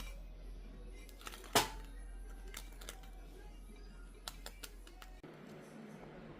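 Light clicks and knocks of kitchen things being handled, with one sharp ringing clink about one and a half seconds in, over a steady low hum that cuts off about five seconds in.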